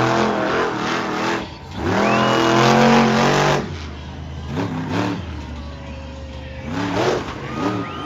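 Bigfoot monster truck's engine revving hard in repeated bursts, the pitch rising and falling with each surge. The longest and loudest surge is about two to three and a half seconds in, with shorter blips near the middle and near the end.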